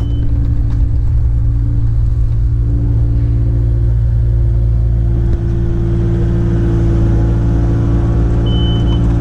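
Kubota excavator's diesel engine running steadily, heard from inside the cab. Near the end a short high electronic beep starts repeating about once a second.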